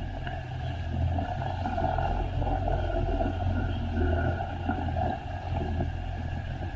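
Jet ski engine running steadily: a continuous low drone with no real change in speed.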